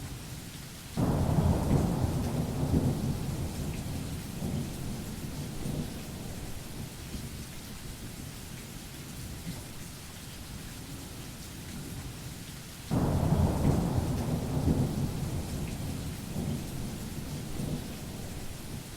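Steady rain with two claps of thunder, one about a second in and another near thirteen seconds in, each starting suddenly and rumbling away over several seconds.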